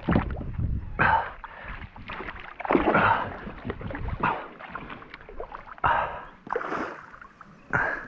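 Kayak paddle strokes splashing and pulling through river water, repeated roughly once a second.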